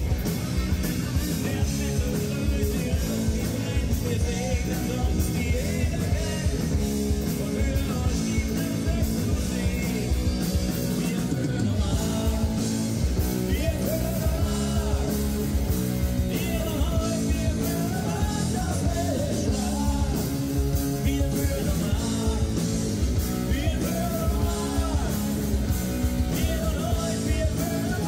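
A rock band playing with singing over a steady drum beat.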